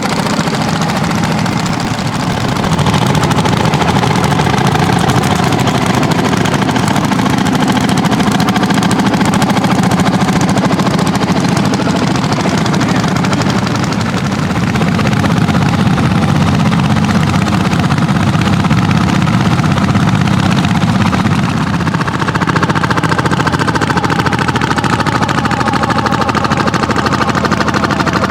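Landini hot-bulb tractor engines, single-cylinder two-strokes, running loud and steady. A higher engine note joins about three-quarters of the way through.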